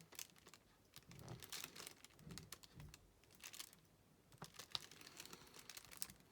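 Faint scattered ticks and light crinkling from diamond painting: a drill pen picking up and pressing small resin drills onto the sticky canvas, with the plastic crinkling at the edge of the mat.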